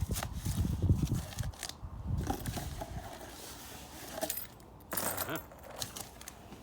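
Cardboard box and packaging being handled and opened: irregular clicks, knocks and rustles, with low thumps in the first second and another burst of rustling about five seconds in.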